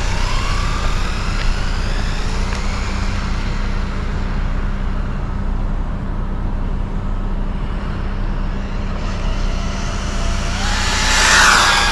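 Electric whine of a 1/14 HyperGo 14301 RC car's KingVal 2845 5900 kV brushless motor on a speed run. It rises in pitch at the start as the car accelerates away and fades, then comes back louder near the end as the car runs back close by, over a steady low hum.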